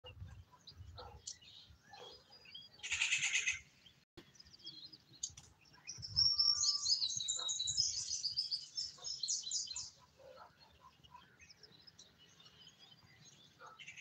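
Small birds chirping, with a short harsh chatter about three seconds in and a rapid run of high chirping notes from about six to ten seconds.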